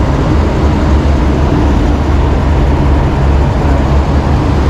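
Motorcycle engine running steadily with a constant low rumble while the bike is stopped to let a passenger off.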